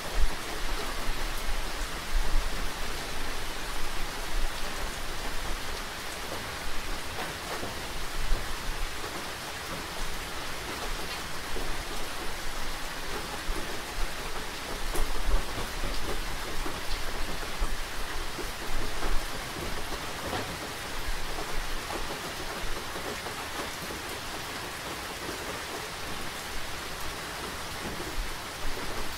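Steady rain with a dense patter of drops, plus a low rumble and louder knocks that come and go.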